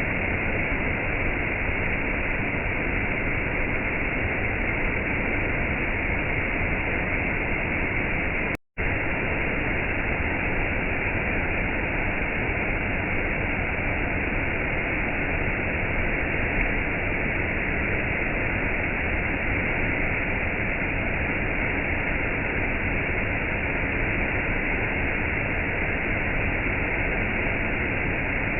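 Steady rushing hiss of rain and falling water, even throughout, with a split-second dropout to silence about nine seconds in.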